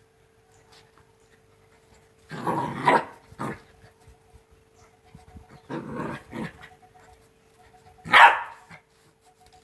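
Two-month-old Rottweiler puppy barking in three short bursts, about two seconds in, around six seconds in, and loudest near the end.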